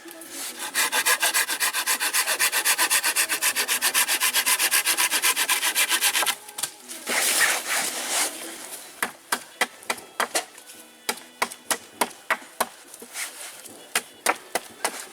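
A hand tool working wood: fast, even rasping strokes for about six seconds, then a short pause and slower, irregular scraping strokes.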